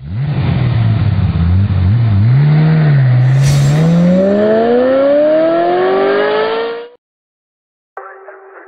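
Car engine and exhaust, the pitch wavering low at first, then climbing steadily as the car accelerates hard, with a brief sharp crack partway through. It cuts off abruptly about seven seconds in, and music begins faintly near the end.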